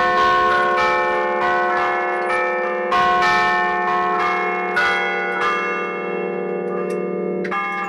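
Tower church bells played from a keyboard with hammers ('a martellino'), struck in quick succession in a melodic festive peal, the notes ringing on and overlapping.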